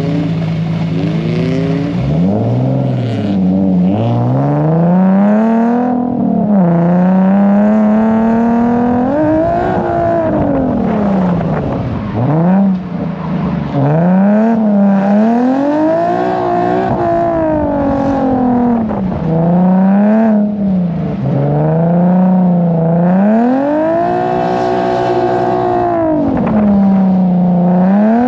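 Drift car engine being revved hard and let off over and over, its pitch climbing and dropping about every two to three seconds as the car is driven sideways on the throttle.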